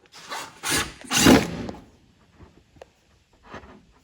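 Short scraping and rustling noises, the loudest about a second in, then a faint click and a softer scrape near the end.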